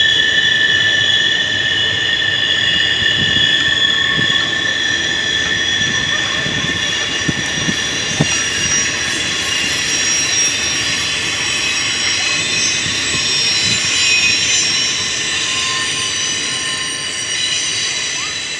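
Double-stack intermodal freight train rolling past, its wheels squealing in several steady high-pitched tones over the rumble and clatter of the cars. It grows a little quieter near the end.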